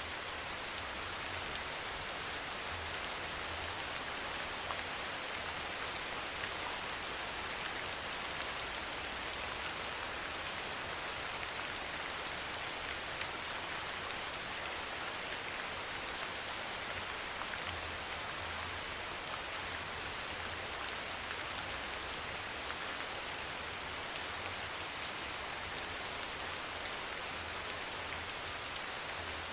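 Steady, even rain falling, with faint scattered drop ticks in the hiss.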